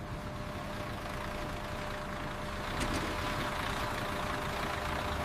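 Trucks' engines and road noise as they pull away from the loading dock: a steady, even rumble that grows slightly louder as it goes.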